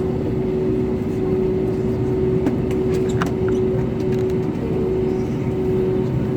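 Cabin noise inside an Airbus A320neo: a steady rumble of engines and airflow with a constant hum, and a few faint clicks near the middle.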